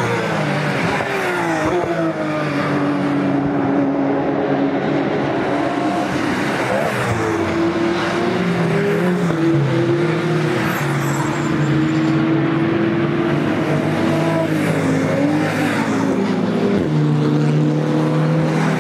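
Race car engines with open, unsilenced exhausts going past one after another. Several engine notes overlap, rising and falling in pitch through gear changes and throttle.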